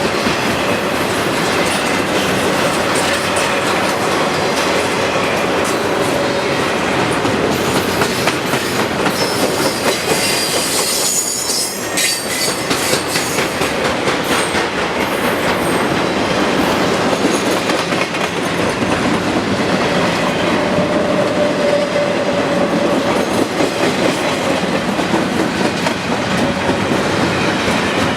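Intermodal freight cars rolling past, wheels clattering over the rail joints with a steady rumble, and wheel squeal rising now and then.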